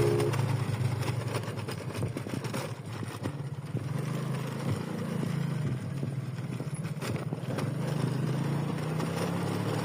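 A motor vehicle's engine running steadily, a low hum with a light rumble that dips a little about three seconds in and then holds.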